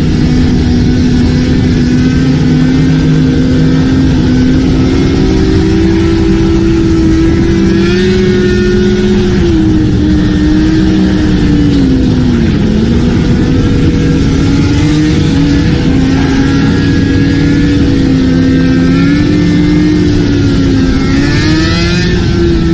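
Motorcycle engine running, its pitch drifting up and down with the throttle and dipping sharply, then climbing back, about halfway through.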